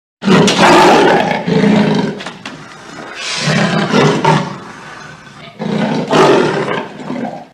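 A large animal roaring in three long bouts.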